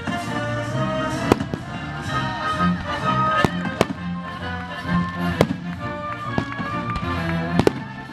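A symphony orchestra playing live, with fireworks going off over the music in several sharp bangs and pops, spaced a second or two apart.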